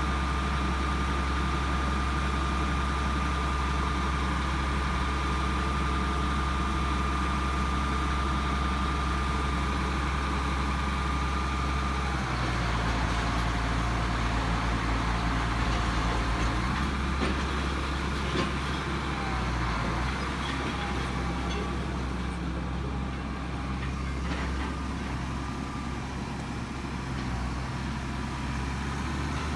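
A heavy engine running steadily at low revs, with a thin high whine over it. About twelve seconds in the whine stops and the engine note changes, and it changes again a few seconds later.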